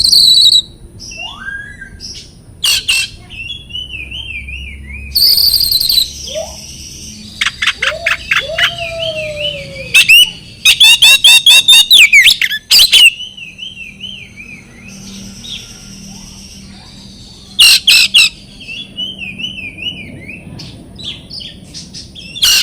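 Oriental magpie-robin (kacer) singing a loud, varied song of sharp whistled phrases and falling notes. Near the middle comes a burst of rapid repeated notes, and wavering trills fill the gaps between phrases.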